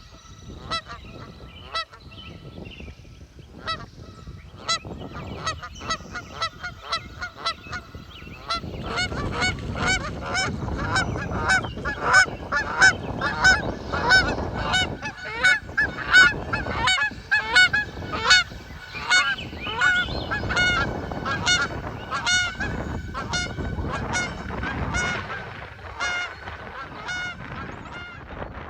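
A flock of birds calling, many short overlapping calls that grow denser and louder about a third of the way in and ease off near the end.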